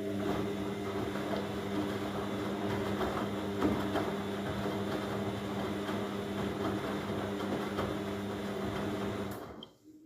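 Myria MY1506 washing machine in its rinse cycle: the motor turns the drum with a steady hum over a noisy rush, then stops suddenly about nine seconds in.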